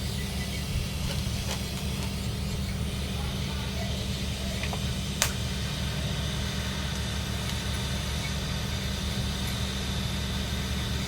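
Steady low machine hum with a hiss over it, and one sharp click about five seconds in.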